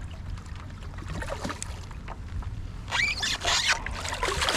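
Water sloshing and splashing around a kayak at sea over a steady low rumble, with scattered small knocks and a louder splashing stretch about three seconds in.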